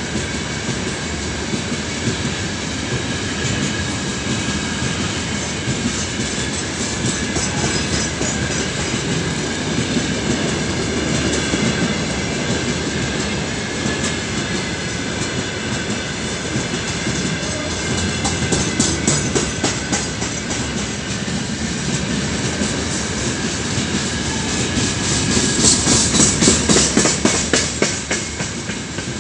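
Freight train's open-top gondola wagons rolling past close by: a steady rumble of steel wheels on rail, with the rhythmic clickety-clack of wheelsets over rail joints. The clatter comes in faster, louder runs, loudest a few seconds before the end.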